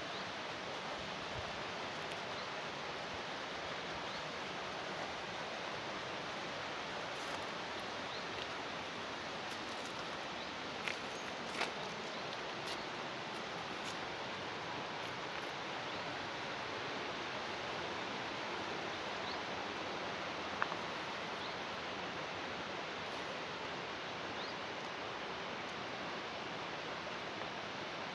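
Steady rush of water flowing along a canal, with a few faint clicks and short high chirps over it.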